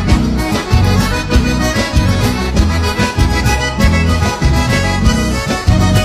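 Instrumental passage of gaúcho dance-band music led by piano accordion (gaita) over a steady bass beat.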